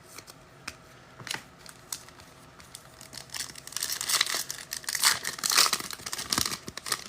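Wrapper of a football trading-card pack being torn open and crinkled: a few scattered rustles at first, then dense crinkling from about three seconds in.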